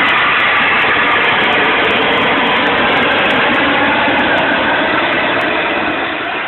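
Jet engine running with a loud, steady rush and a faint whine, dipping slightly near the end.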